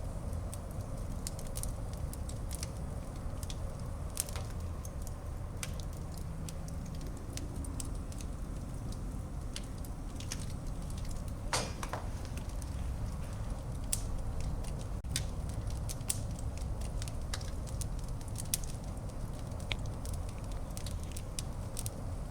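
Fire burning in a fireplace: a steady low rumble with irregular sharp crackles and pops, one louder pop about halfway through.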